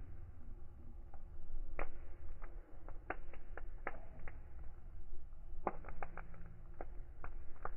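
Wood fire crackling: irregular sharp pops and snaps, several close together around the middle, over a steady low rumble of the flames.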